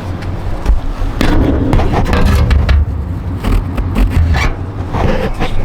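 Irregular scraping and knocking of hard parts being handled and fitted, over a steady low hum.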